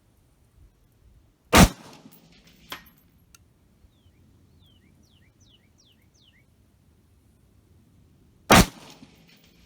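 Two rifle shots about seven seconds apart from an 11.5-inch AR pistol fitted with a Sons of Liberty Gun Works NOX compensator. About a second after the first comes a faint distant clang: the bullet striking a steel plate at 300 yards.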